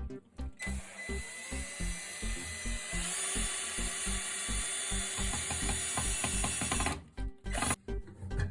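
A power tool running steadily for about six seconds, starting about half a second in and cutting off sharply, over background music with a steady beat.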